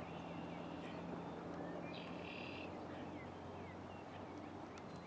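Small birds chirping around a pond, with one brighter call about two seconds in, over a steady low hum and a faint rushing noise.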